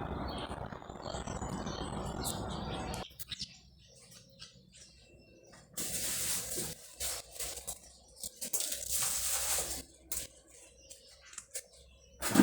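Steady rain falling with birds chirping over it, cutting off suddenly about three seconds in. Later come a few separate bursts of hiss, each a second or so long.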